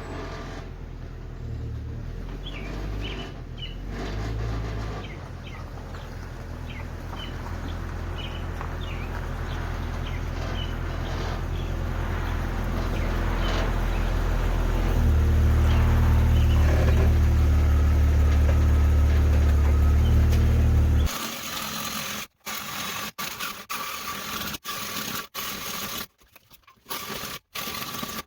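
The Jeep Cherokee XJ's 4.0 straight-six engine running steadily at idle, growing louder and jumping up in level about halfway through. About three-quarters of the way in it cuts off abruptly, and choppy sounds broken by short silences follow.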